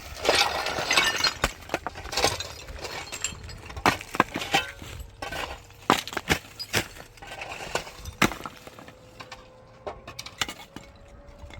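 Wooden building debris being handled and broken: a scraping clatter for about the first second and a half, then scattered sharp knocks and cracks at irregular intervals.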